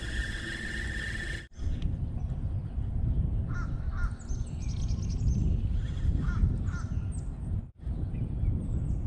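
Birds giving short, harsh, caw-like calls in two bouts around the middle, over a steady low rumble. The sound changes abruptly about a second and a half in, and drops out briefly near the end.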